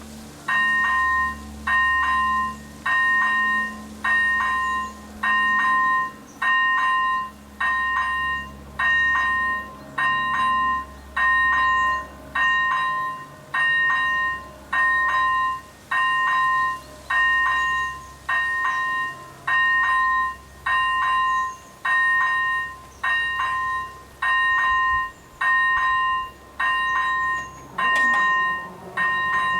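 ZV01 electronic railway crossing bell starting up and ringing a steady two-tone chime about once a second, warning road traffic of an approaching train.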